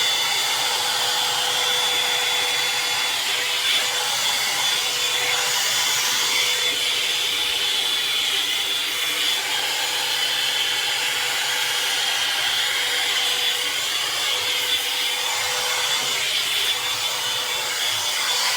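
Hot air brush (hair dryer brush) running: a steady rush of blown air from its fan, with a thin steady whine on top.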